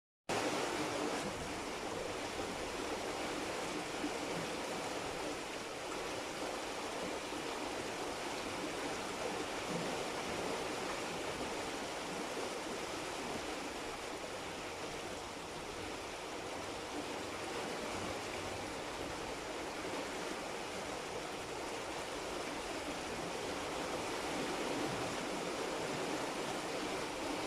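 Steady rain falling, an even, unbroken rush of water.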